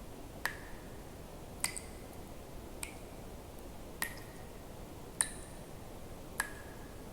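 Single water drops falling into water, each a short plink with a brief ringing tone, six in all at roughly one every 1.2 seconds, over a faint steady hiss.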